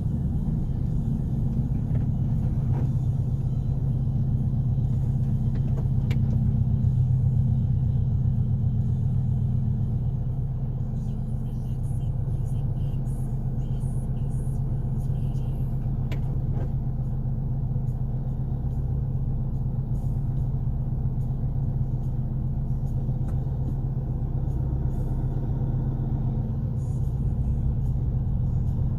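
Car driving at a steady cruise: a low, steady engine and exhaust drone, swelling a little about seven seconds in and then easing back.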